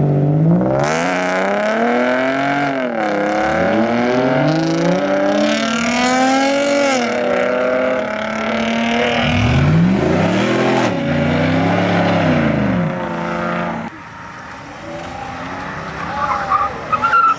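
A car engine revved hard in repeated rising and falling swells, with tyre squeal mixed in during the first half, as a car does donuts. The revving drops away about fourteen seconds in.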